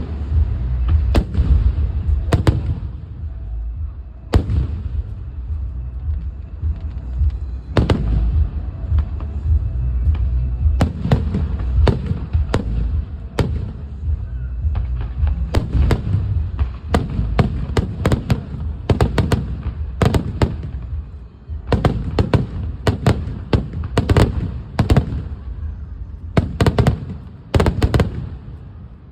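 Aerial fireworks show: rapid, irregular bangs of shells bursting over a continuous low rumble, thickening into dense volleys in the second half, then stopping abruptly just before the end.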